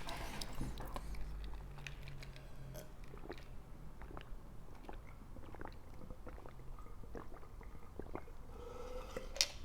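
Close-up chewing and crunching of corn chips (Fritos) topped with picadillo: irregular small crunches and wet chewing sounds.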